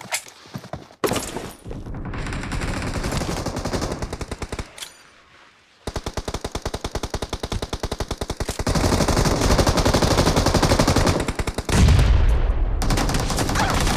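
Video game automatic weapon fire: long bursts of fast, evenly spaced shots, about ten a second, with a short lull around five seconds in. Heavier, deeper shooting comes near the end.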